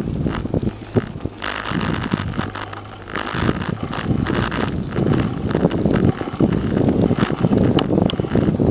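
Wind buffeting the microphone of a camera riding on a moving bicycle, with a rattle of sharp clicks and knocks from the bike on the trail. The wind eases for a moment about two seconds in.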